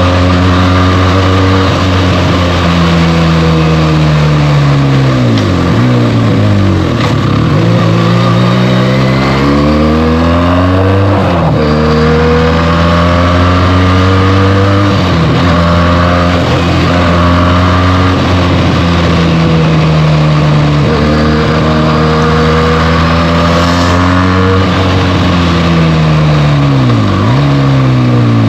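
Benelli TNT 300's parallel-twin engine through its stock exhaust, ridden on the road. The engine note climbs and falls over and over as the throttle opens and closes and the gears change, with sharp drops in pitch around 6 to 7 seconds, at about 11 seconds, and near the end.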